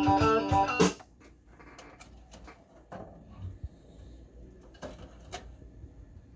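Guitar music playing back through the Technics SL-MC4 CD changer stops abruptly about a second in. A few faint scattered clicks and knocks follow.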